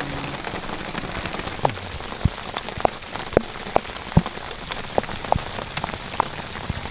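Heavy rain pouring down: a steady hiss with loud individual drops striking close by at irregular intervals, a few each second.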